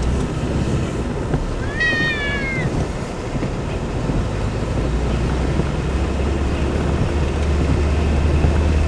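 A pet's single drawn-out whining call, rising then falling in pitch, about two seconds in, over a steady low rumble and hiss.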